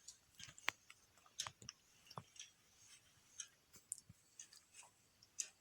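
Faint, irregular clicks and light taps of paper pieces being handled and pressed down by hand while pasting a paper petal onto a paper circle.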